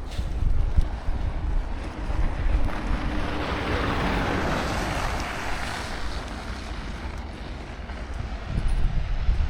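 Blizzard wind buffeting the microphone with a steady low rumble, and a broad swell of rushing noise that builds and fades around the middle.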